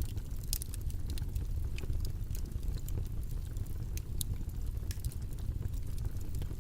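Steady background noise ambience, a constant low rumble with many faint, scattered crackles and clicks over it.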